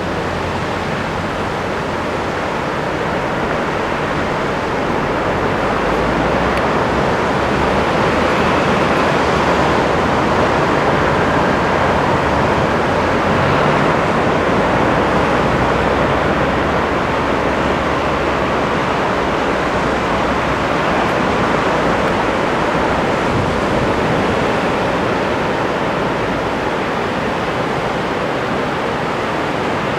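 Surf washing steadily onto a long sandy beach, small waves about half a metre high breaking one after another in an unbroken wash that swells and eases slowly.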